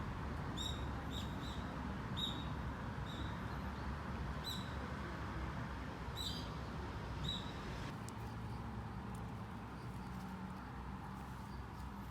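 Short, high-pitched chirps from a small animal or bird, about a dozen at uneven spacing, stopping about two thirds of the way through, over a steady background hiss.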